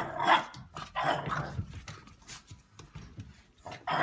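A dog vocalizing in short bursts, about three times, the loudest right at the start.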